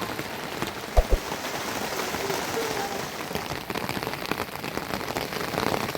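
Steady rain pattering on a surface, with a couple of short low thuds about a second in.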